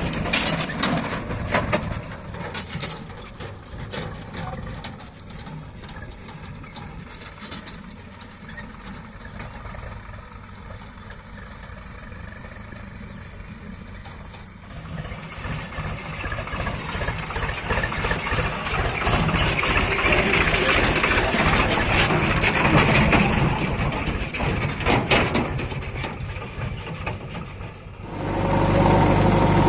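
Diesel engines of a JCB 3DX backhoe loader and a Swaraj 735 tractor running at a work site. The sound is quieter for the first half, grows louder from about halfway, and changes abruptly near the end to a louder steady engine hum.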